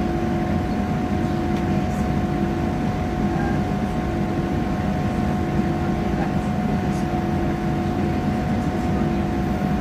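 Passenger train running, heard from inside the carriage: a steady low rumble with a constant hum, and a few faint ticks.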